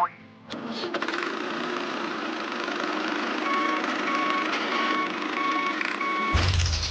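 Truck engine running steadily with a reversing alarm beeping about six times, evenly spaced, in its second half. A heavy low thud comes near the end.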